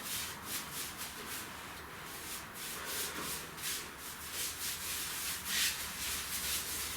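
Wide paintbrush scrubbing varnish into rough fireplace stone: a run of short, scratchy bristle strokes, a couple each second.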